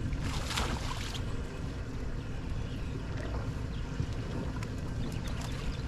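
Boat on open water: a steady low rumble with wind on the microphone, and a brief rush of noise about half a second in.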